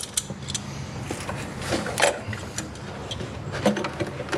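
Scattered light clicks and knocks of hands and tools handling a radiator hose and its clamp in a Jeep Wrangler engine bay, over a faint steady hum.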